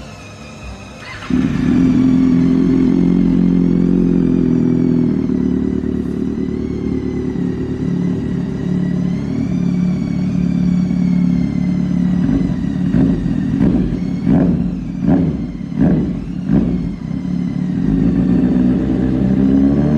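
Kawasaki Ninja ZX-6R inline-four engine through an aftermarket performance exhaust, coming in abruptly about a second in and idling steadily. Around two-thirds through it is revved in a series of about five quick throttle blips, then it revs up again near the end.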